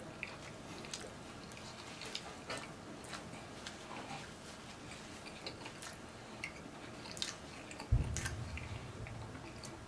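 Close-up chewing of a soft sub sandwich of bread, ham, cheese and mayo, with small wet mouth clicks and smacks. A low thump comes about eight seconds in.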